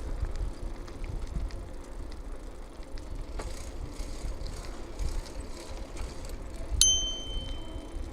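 Bicycle on the move, with wind and tyre rumble, then a single ding of a bicycle bell near the end that rings on for about a second.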